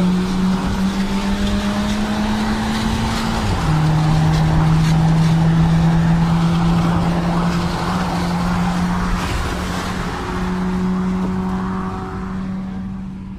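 Car engines at full throttle in a drag run, with road and tyre noise on a wet strip. The engine note climbs, drops sharply with a gear change about three and a half seconds in, then pulls steadily again.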